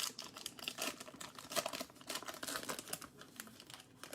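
A foil wrapper on a pack of baseball trading cards being torn open and crinkled, a quick run of crackly rustles and clicks.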